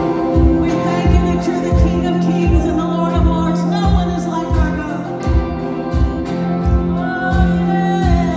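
Gospel worship music: voices singing over a band with a steady low beat of about three thumps every two seconds.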